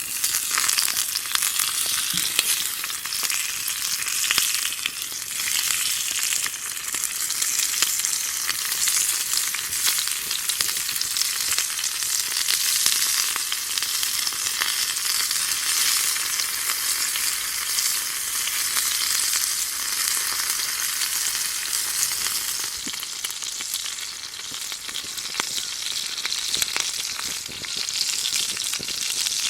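Side dish frying in a mini cast-iron skillet: a steady loud sizzle peppered with many tiny pops.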